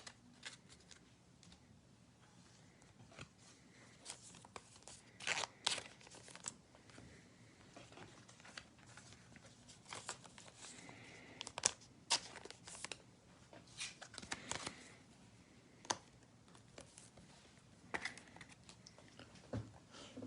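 Faint, scattered rustling and light clicks of trading cards being handled and slid against one another.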